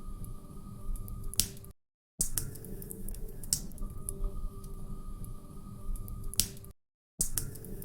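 Wood fire crackling in a fireplace, with a steady patter of small crackles and a few sharp, louder pops. The sound cuts out completely for a moment twice.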